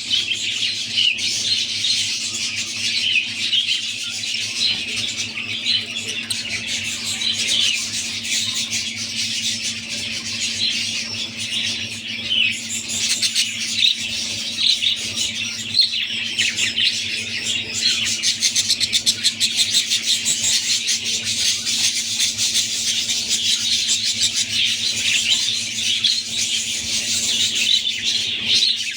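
Budgerigars chattering and squawking without a break, with a stretch of fast, even chatter about two-thirds of the way through, over a steady low hum.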